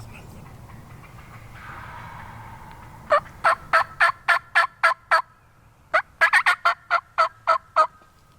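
Turkey yelping: two loud runs of short, evenly spaced yelps, about three a second, the second run starting after a pause of under a second.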